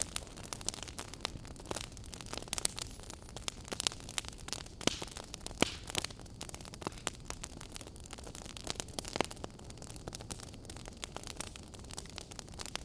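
Campfire burning, with a steady low rumble of flames and many irregular crackles and pops of burning wood.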